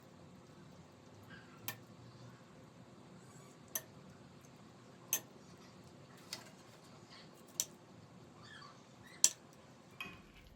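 Sharp, light taps of kitchen work, about seven of them, one every second or two, the loudest near the end, over a quiet background hiss.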